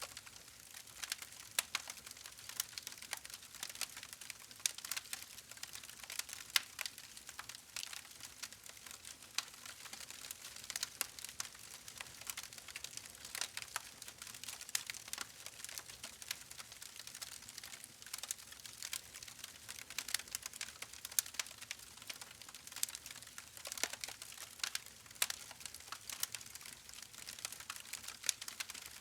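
Wood fire crackling, with dense irregular pops and snaps over a faint hiss.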